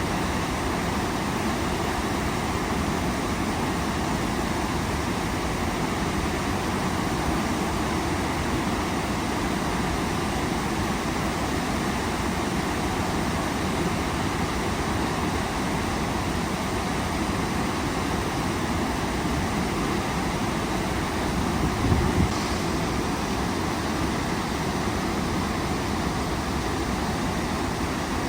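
Waterfall roaring steadily, a constant rush of falling water. About three quarters of the way through there is a brief low thump.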